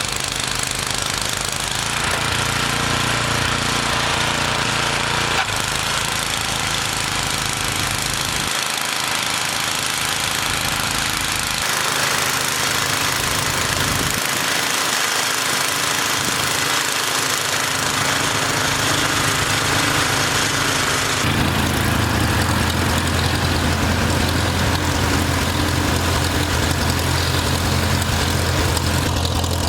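Farmall tractor engine running with a knocking beat, its speed and pitch shifting several times, then settling to a stronger, steady note about two-thirds of the way through, as it moves snow.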